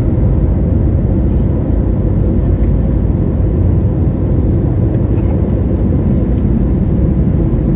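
Steady low rumble of a jet airliner's engines and rushing air, heard from inside the passenger cabin as the plane takes off and climbs, with a faint steady hum running through it.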